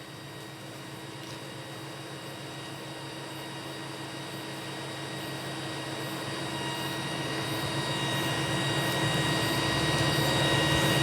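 A steady machine-like whir with several steady whine tones, growing gradually louder all the way through.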